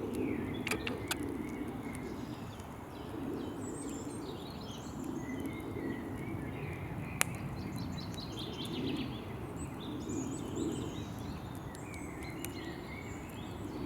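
Campfire burning with a steady low rush and scattered crackles, one sharp pop about seven seconds in, while birds sing and chirp in the background.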